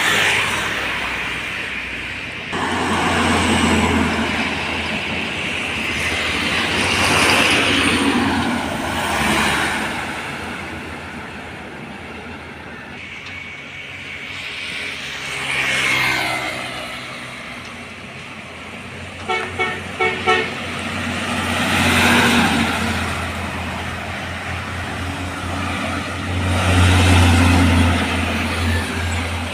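Heavy diesel trucks and buses passing one after another on a road, each swelling up and fading away. About twenty seconds in there is a quick series of about four short horn toots.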